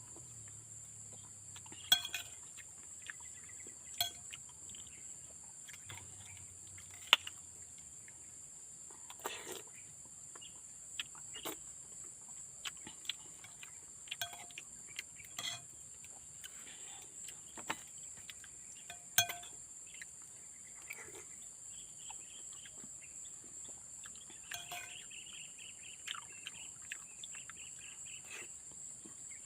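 Sharp clinks of a spoon against a plate every few seconds while eating, over a steady high drone of insects. A bird twitters rapidly near the end.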